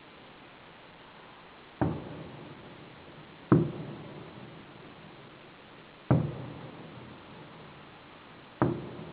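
Fireworks exploding: four separate booms about two to two and a half seconds apart, each trailing off in a long echo.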